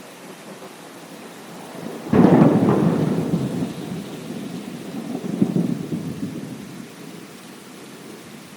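Steady rain with a sharp thunderclap about two seconds in, followed by rolling thunder that swells again a few seconds later and dies away, under the hiss of the rain.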